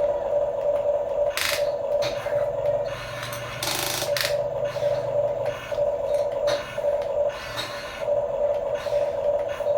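Huina RC construction toy's electric motor and gearbox whining in short runs, stopping and restarting every second or so, with a few scraping sounds, the longest about four seconds in.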